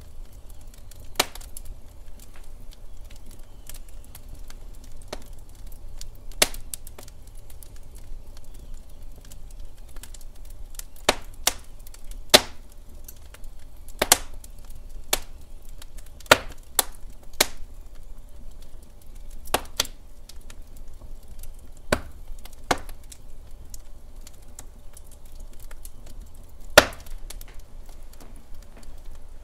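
Log fire burning in a fireplace: burning wood cracks and pops at irregular intervals over a steady low rumble of flame. The pops come a few seconds apart, with the sharpest one near the end.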